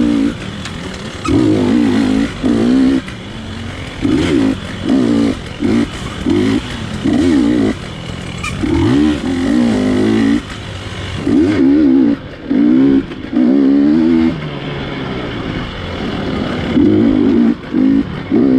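GasGas dirt bike engine revving in many short bursts, the rider snapping on and off the throttle every second or so, with the pitch climbing in each burst and dropping back between them.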